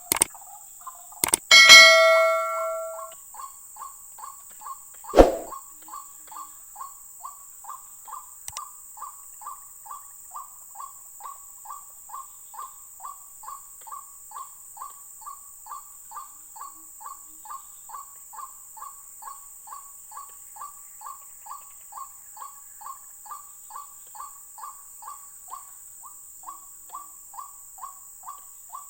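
White-breasted waterhen (ruak-ruak) call, a short note repeated evenly about twice a second for the whole stretch. Near the start there are a few sharp knocks and a ringing metallic clang that dies away, and another knock at about five seconds.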